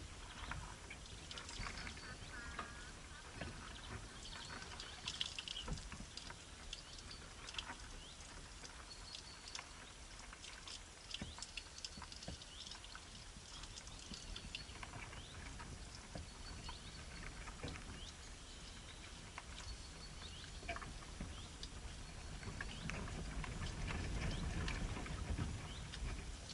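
Birds moving about: scattered light taps and rustles with a few brief high chirps, and a low rumble rising near the end.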